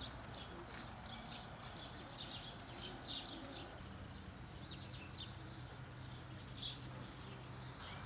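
Small birds chirping again and again, many short high chirps, over a faint low steady hum.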